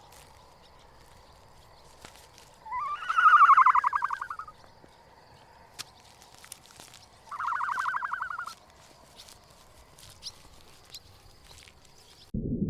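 An animal calls twice, each call a buzzy, pulsing cry lasting a second or two, the first louder and rising at its start. Small clicks and a faint hiss lie between the calls, and a low noise starts just before the end.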